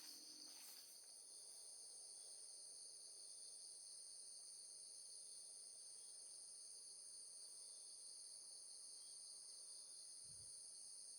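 Faint, steady chorus of crickets trilling without a break in two high pitches, with a soft low thump near the end.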